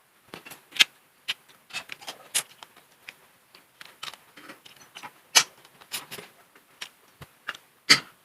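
Close-miked mukbang eating sounds: irregular crunches, clicks and cracks of chewing and of handling seafood, with the loudest cracks about five and a half seconds in and just before the end.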